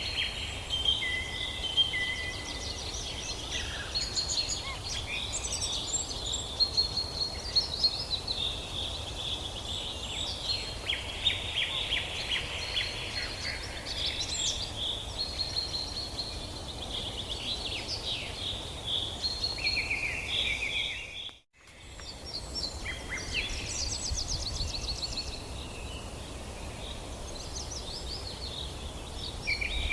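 A chorus of several small forest songbirds chirping and trilling, overlapping, over a steady low background rumble. The sound drops out completely for a moment about two-thirds of the way through, then resumes.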